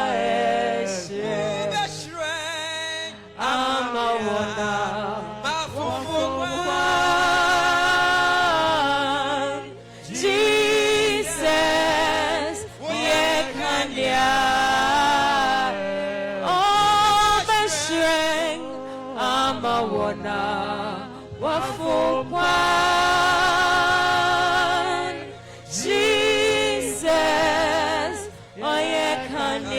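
Gospel worship song: singing with a wavering vibrato over instrumental accompaniment, in phrases with short breaks between them.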